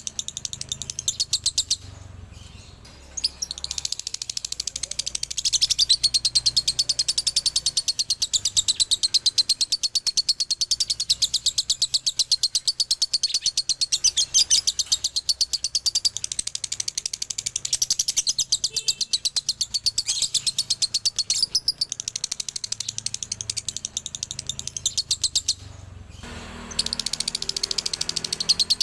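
Male lovebird singing its long, rapid chattering ngekek, a fast run of high notes broken by two short pauses, about 2 seconds and 26 seconds in.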